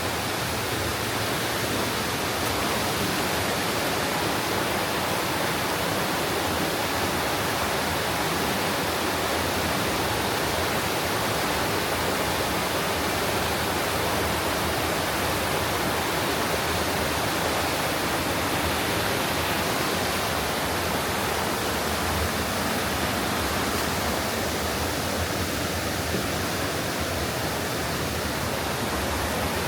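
Rushing water of a mountain stream in a waterfall gorge, a steady, even noise with no let-up.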